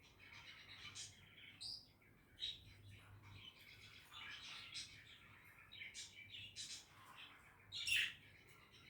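Budgies (budgerigars) chattering and warbling: a continuous run of short chirps and twittering, with a sharp, louder call about eight seconds in.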